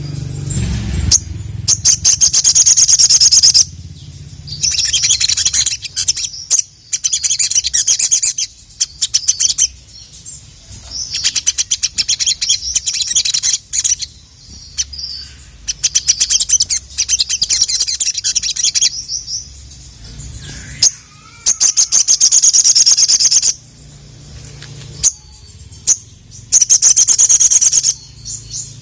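Sogon (crimson sunbird) singing in repeated bouts of rapid, high-pitched chattering trills, each a few seconds long with short pauses between.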